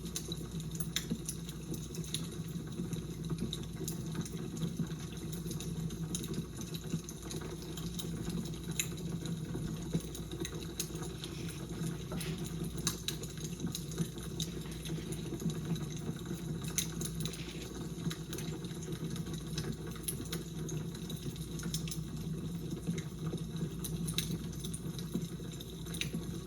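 Fire crackling: irregular small pops and snaps over a steady low background noise.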